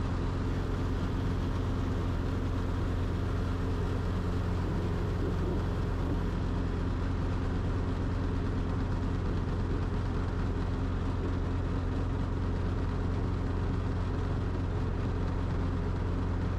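Helicopter in flight on a steep approach: the steady low drone of its rotor and engine, with several unchanging low hums.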